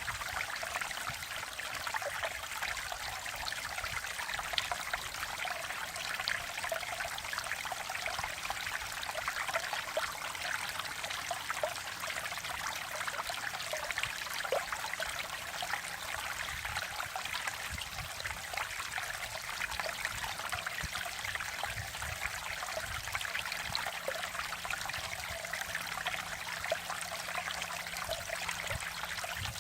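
A mountain valley stream running steadily over rocks, an even rushing with small splashes and trickles through it.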